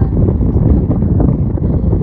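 Wind buffeting the microphone, a loud, unsteady low rumble.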